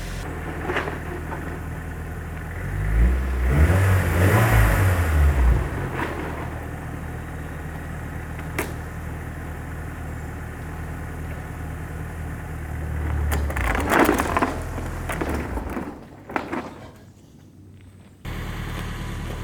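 Nissan 180SX's engine idling with a steady low hum, its revs rising twice under light throttle, loudest about three to five seconds in and again briefly near fourteen seconds.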